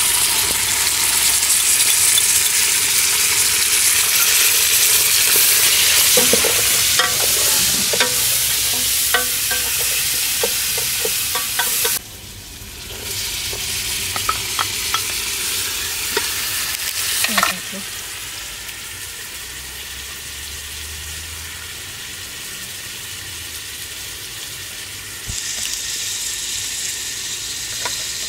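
Food sizzling and frying in oil in a steel cooking pot, with a wooden ladle stirring and knocking against the pot in a run of clicks. The sizzle drops off suddenly about twelve seconds in and again a few seconds later, then carries on more quietly.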